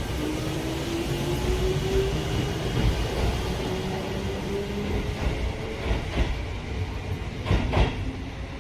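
Sanyo Electric Railway electric train pulling away: its traction motor whine rises steadily in pitch as it accelerates over a low rumble. Near the end the wheels clack over rail joints several times.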